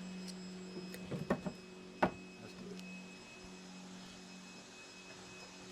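A steady low hum with a few light knocks and one sharp knock about two seconds in.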